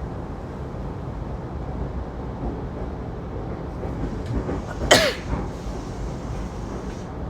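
Steady low rumble inside a Saikyo Line commuter train car. About five seconds in comes one short, sharp sound, most like a passenger's cough.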